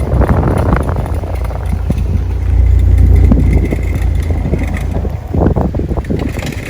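A vehicle's engine running with a low rumble that swells about two and a half seconds in, with wind buffeting the microphone and a few scattered knocks.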